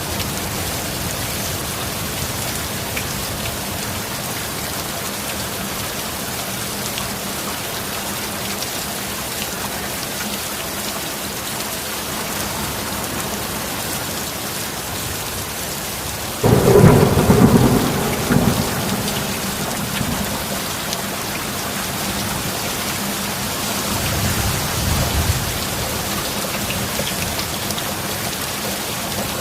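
Steady heavy rain with a sudden loud thunderclap about sixteen seconds in that rumbles away over two or three seconds, and a softer roll of thunder about eight seconds later.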